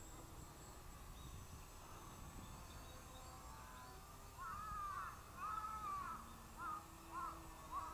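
A crow cawing about five times, starting a little over four seconds in: a longer drawn-out caw or two, then shorter ones.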